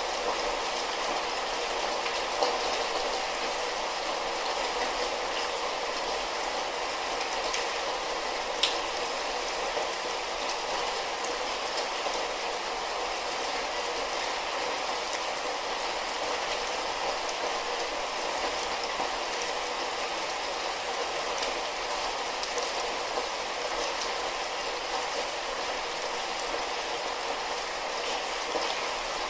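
Light rain falling steadily, an even hiss with a few sharper drop hits standing out now and then.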